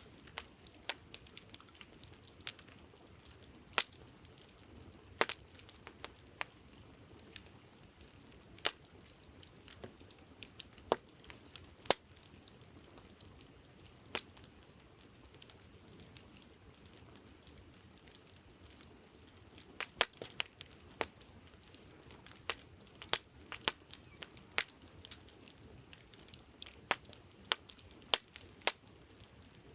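Wood campfire crackling: irregular sharp pops and snaps over a steady low hiss, coming in quicker clusters about two-thirds of the way through and again near the end.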